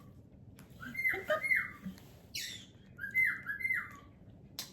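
Pet parrot giving a repeated two-note whistled call, each note rising then dropping in pitch, about every two seconds, with a brief harsh squawk-like burst in between.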